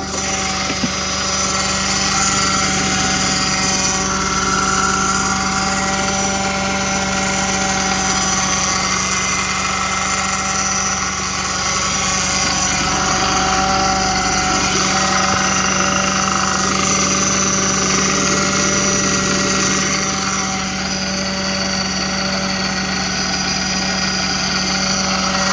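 Audi 3.2 engine idling steadily just after a cold start, with a high-pitched whine running over the idle.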